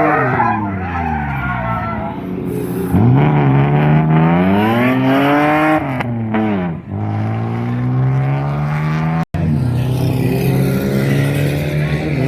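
Ford Falcon FG drift car's engine revving hard, its pitch climbing and falling as the car slides, with tyres squealing. The sound cuts out for an instant about nine seconds in.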